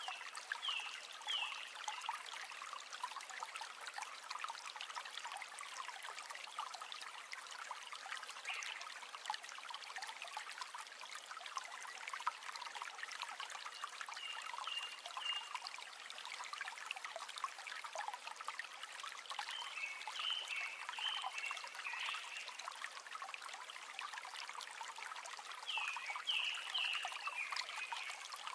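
River water flowing and trickling steadily, with a few short high-pitched chirps over it now and then.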